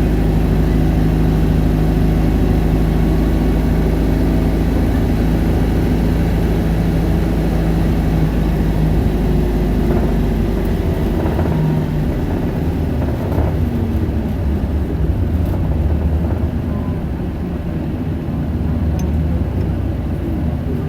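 Isuzu Erga city bus's four-cylinder turbo-diesel running as the bus drives, heard from inside the cabin. The engine holds a steady note for about the first half, then that note drops away, leaving a lower rumble.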